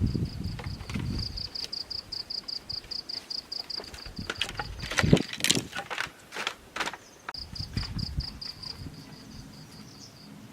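An insect chirping in a rapid, even train of high pulses, stopping in the middle and starting again about seven seconds in. A few sharp clicks or knocks sound while it pauses.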